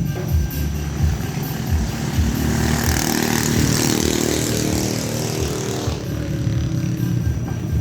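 Colt T120SS pickup engine running through an aftermarket AJN muffler and racing header. It idles with a low, uneven pulse, is revved up about two and a half seconds in and held, then drops back to idle near the six-second mark.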